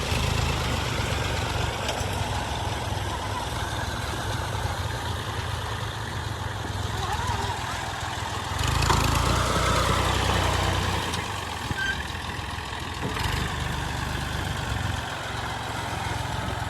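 An old combine harvester's diesel engine running steadily under the noise of its working machinery, swelling louder for a couple of seconds around the middle.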